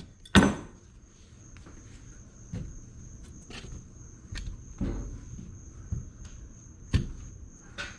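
Irregular knocks and clicks of hand work on a stuck lowrider hydraulic cylinder being worked loose: a loud one just under half a second in, then lighter ones about every second. Under them runs a steady, high-pitched insect trill.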